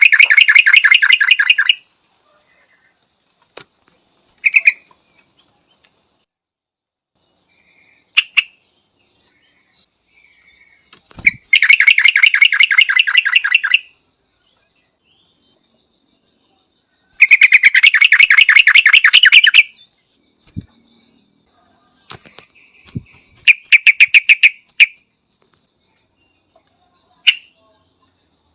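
Yellow-vented bulbul calling: four bursts of rapid chattering notes, each about two seconds long, with a few single short notes in between.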